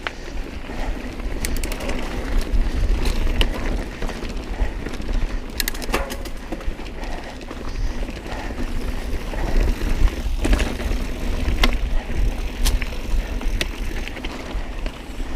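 Mountain bike riding over a rocky trail: a steady low rumble of tyres and wind on the microphone, with many sharp clatters and clicks as the bike hits rocks.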